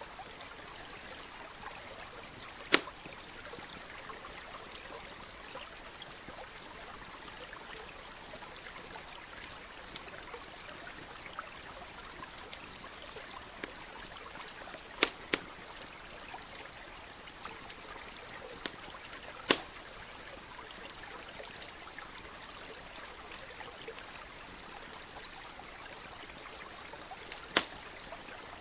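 Steady trickle of a small stream under a crackling campfire: scattered light ticks and a handful of sharp, loud pops from the burning wood.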